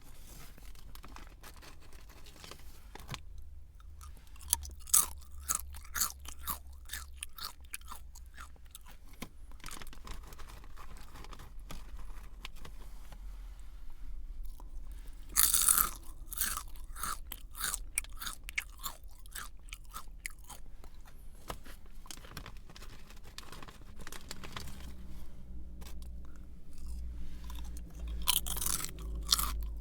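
A person chewing a crunchy snack: a long run of crisp crunches, with a loud bite about halfway through and another burst of crunching near the end.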